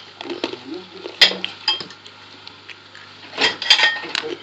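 Clinking and knocking of small hard objects being handled, with a sharp clack about a second in and a quick cluster of clinks near the end.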